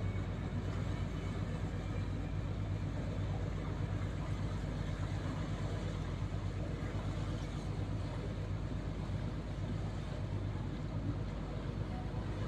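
Motor ship's diesel engine running steadily, a low even drone.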